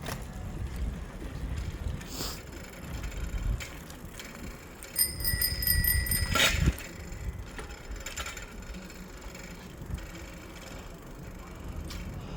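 A bicycle bell rung in a rapid trill for a little over a second, about five seconds in, with a sharp knock right after it. Low wind and riding noise run under it.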